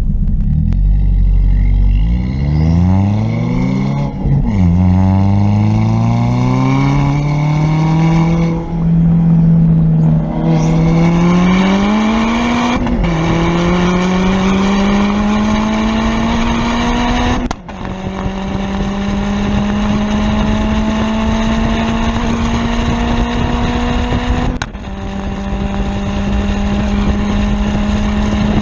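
Ford Fiesta ST's big-turbo 1.6 L EcoBoost four-cylinder accelerating hard up through the gears. The exhaust note climbs steadily in each gear and falls back at each of four upshifts, with a sharp crack at the later shifts.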